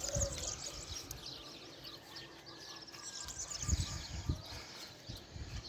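Many small birds chirping and twittering in quick, high notes, with a few brief low rumbles about two-thirds of the way through.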